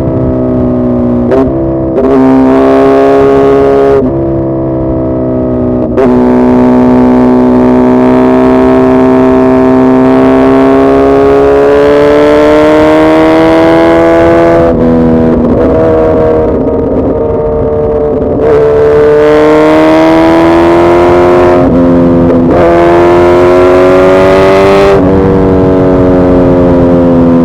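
Suzuki Hayabusa's inline-four engine running hard under load. Its note climbs slowly in pitch, then dips and picks up again several times through the stretch, with a quieter spell about four seconds in.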